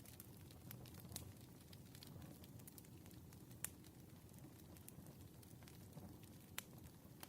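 Wood fire crackling faintly: a low steady rustle of burning logs with scattered sharp pops, the loudest a little past three and a half seconds in.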